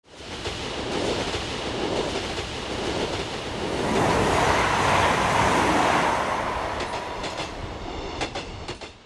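A recorded train passing by: a rushing rumble that swells to its loudest about halfway through, then fades away, with a quick series of wheel clicks over the rails near the end.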